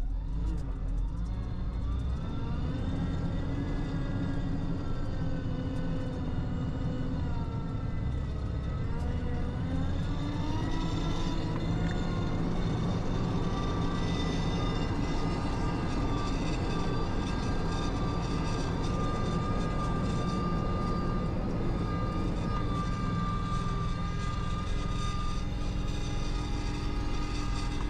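Fire engine driving at speed with its engine running under load. The engine note rises and falls through gear changes for the first ten seconds or so, then settles into a steady drone with a high steady whine.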